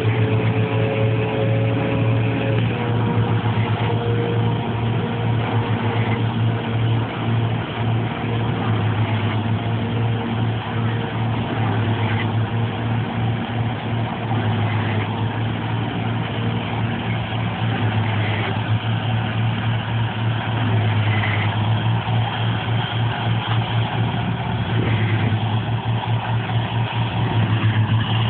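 Engine of a rice-paddy machine running steadily under load, with a low hum and a small drop in pitch about two and a half seconds in.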